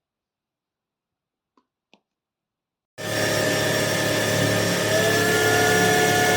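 Ultenic U20 cordless stick vacuum switched on: two faint clicks, then about three seconds in the motor starts abruptly and runs loud and steady with a high whine over a rushing hiss. One of its tones shifts slightly up in pitch about two seconds later.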